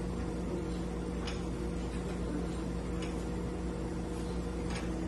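A steady machine hum with a short, sharp click repeating about every second and three quarters.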